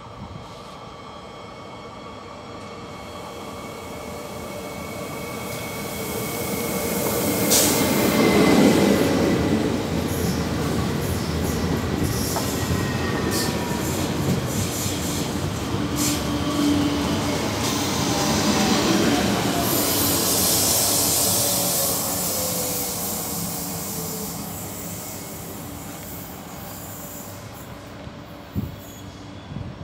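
Double-deck TER electric train passing along the platform: wheels on rails building to a loud rumble about eight seconds in, with electric motor whines gliding steadily down in pitch as the train slows, then fading away. A few sharp clicks come near the end.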